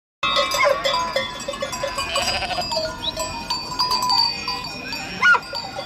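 Livestock bells ringing and clinking, with short animal calls among them; the sound cuts in suddenly just after the start.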